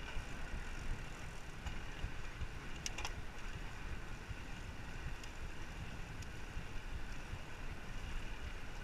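Wind rushing over the microphone of a rider cycling along, with a steady low rumble and a couple of sharp clicks about three seconds in.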